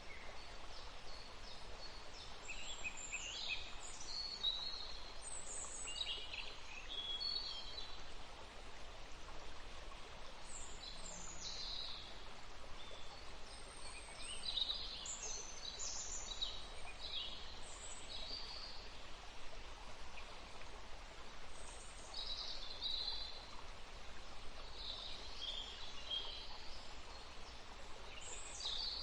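Songbirds chirping, with many short high calls coming every second or two throughout, over a steady background hiss.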